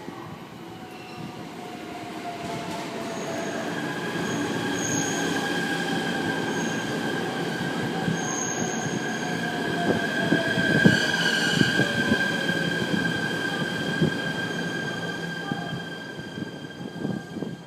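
JR East E129 series electric train running by close at low speed, swelling and fading as it passes. Its wheels squeal steadily on the rails, knocking over rail joints, with a motor whine that falls slowly in pitch.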